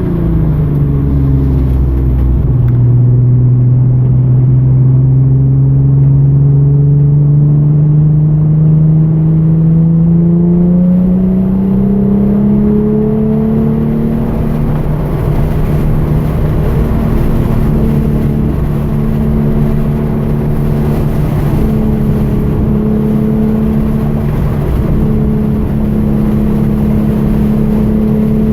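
Hyundai Genesis Coupe 3.8-litre V6 engine under way: the pitch drops at the start as the car slows, climbs slowly for about ten seconds under steady acceleration, then holds a high, steady note with small dips.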